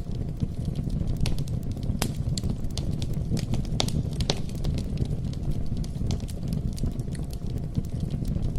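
Wood bonfire burning: a steady low rumble of flames with frequent, irregular sharp crackles and pops from the burning wood.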